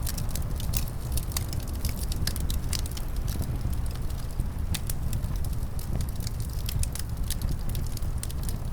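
Wood fire crackling, with frequent sharp, irregular pops over a steady low rumble of wind.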